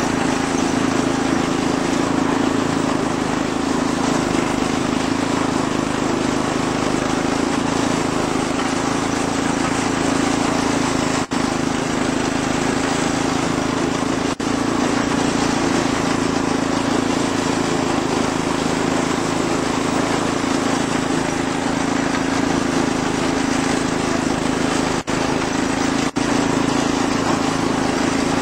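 Massey Ferguson lawn tractor's air-cooled 7–8 hp engine running steadily, back in running order after dirt was cleaned out of its carburetor. The sound cuts out for an instant four times.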